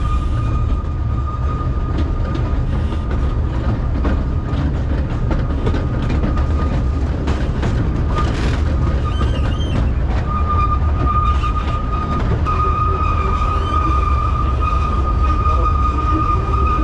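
Kurobe Gorge Railway narrow-gauge trolley train running, a steady heavy rumble with scattered clicks from the wheels and track. A thin high wheel squeal runs over it, dropping out about eight seconds in and coming back louder about ten seconds in.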